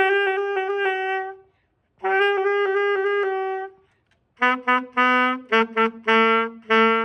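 Saxophone playing a beginner exercise: two long held notes, each about a second and a half, with a breath between, then from about four seconds in a run of shorter, separately tongued notes at a lower pitch.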